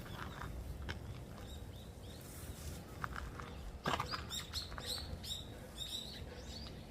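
A small bird singing a quick run of short, high, down-slurred chirps starting about four seconds in, just after a single soft knock.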